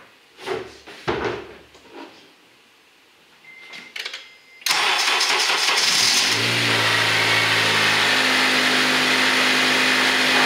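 A few knocks and clicks and a short beep, then about four and a half seconds in the Acura TSX's K24 2.4-litre four-cylinder engine cranks on the starter for about a second and a half, catches and settles into a steady idle. This is the first start after fitting new iridium spark plugs.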